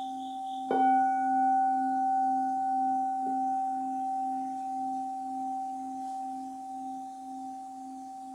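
Buddhist bowl bell ringing. It is struck again about a second in, with a light tap about three seconds in, then its steady tones die away slowly. These are the bell strokes that open a zazen sitting.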